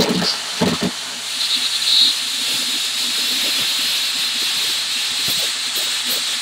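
Plasma cutter blowing a steady hiss of air.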